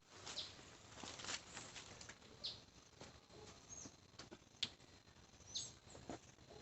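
Faint, quiet background with a few short, high bird chirps spaced a second or two apart and some light clicks.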